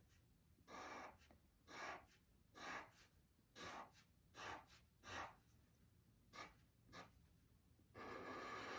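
Faint scratching of a drawing tool on paper: short strokes about one a second, with a longer stroke near the end, as the bottom of a cupcake is drawn.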